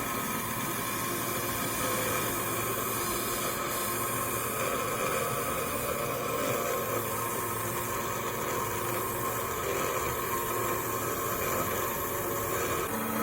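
A small motor running steadily: an even hum and hiss with a few faint constant tones and no change in speed.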